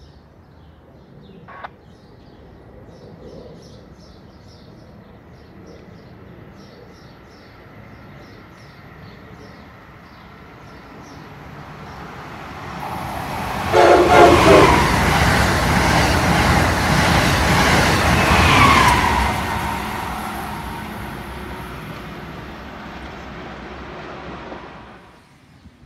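High-speed electric passenger train running through the station without stopping. Its rush of wheels and air builds for several seconds, then a short horn blast sounds as it arrives. The passing is loud for about five seconds before fading away. Birds chirp faintly before the train arrives.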